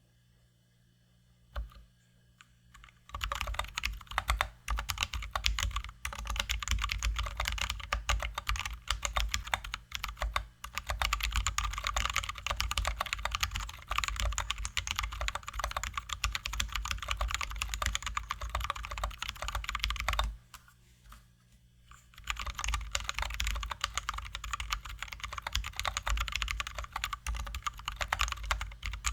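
Fast, continuous typing on a Drop ALT High-profile mechanical keyboard with lubed and filmed Zealios V2 67g tactile switches, lubed stabilizers and XDA-profile keycaps. The typing starts about three seconds in, stops for about two seconds past the middle, then resumes.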